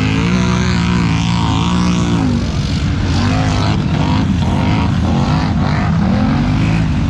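Polaris Scrambler ATV's engine revving hard and continuously, its exhaust note rising and falling in pitch again and again.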